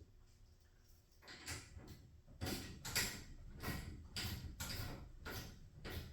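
Garage door hardware clacking: a series of sharp knocks, roughly two a second, starting about a second in.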